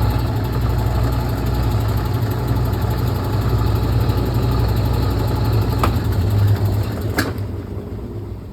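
Brastemp Clean washing machine running with a steady low hum, then winding down near the end, with two sharp clicks shortly before it slows.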